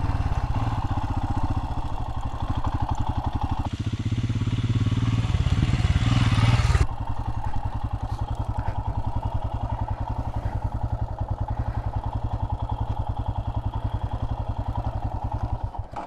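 Royal Enfield Himalayan's single-cylinder engine running slowly with an even pulse. A louder rush of noise lasts about three seconds in the middle, then the engine ticks over steadily until it is switched off just before the end.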